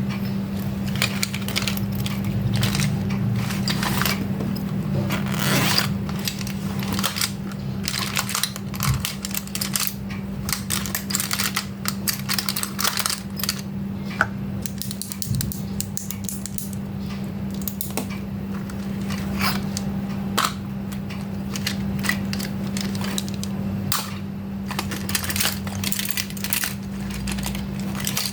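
Raindrops tapping irregularly on a hard surface as many sharp clicks of varying loudness, over a steady low hum.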